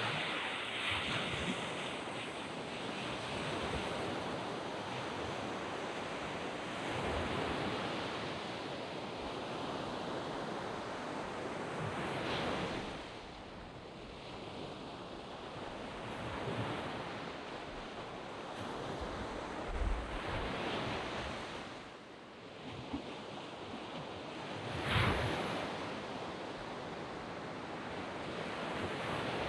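Sea waves breaking and washing up on a sandy beach. The surf swells and falls every few seconds, loudest about halfway through and again near 25 seconds in.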